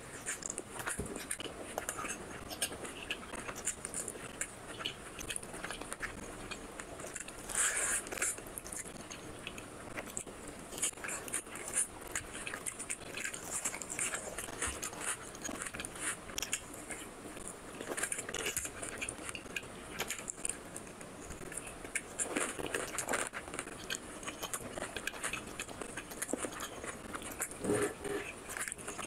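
Close-miked eating: a man chewing mouthfuls of chicken curry and rice, with a steady run of wet smacks and clicks of the mouth.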